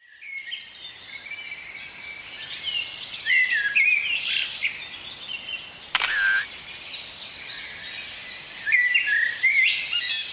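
Small birds chirping and singing in short, rapidly rising and falling calls. A single sharp click comes about six seconds in, followed by a brief steady beep.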